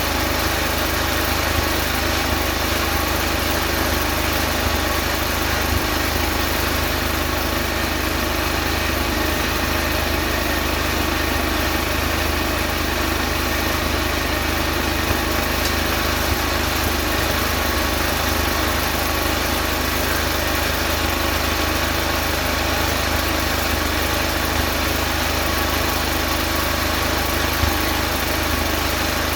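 Small petrol engine running at a steady, even idle.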